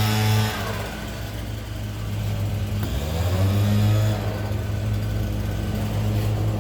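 A motor running with a steady low hum. Its louder, fuller sound drops away about half a second in, and its pitch rises again around three seconds in before settling.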